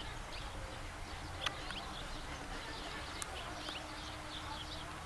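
Small birds chirping, many short high calls scattered throughout, over a low steady rumble, with two sharp clicks about a second and a half and three seconds in.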